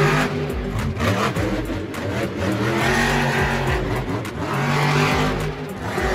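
Monster truck engine revving, its note rising and falling several times.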